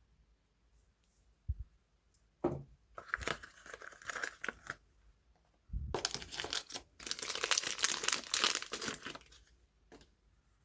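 Soap packaging being unwrapped by hand: wrapper crinkling and tearing in two spells, the second longer and louder, each set off by a soft knock.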